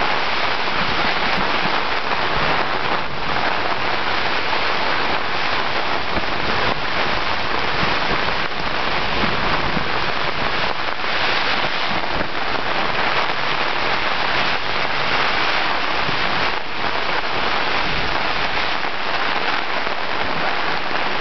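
Heavy rain and gale-force wind beating on a tent, a loud, steady hiss that hardly changes.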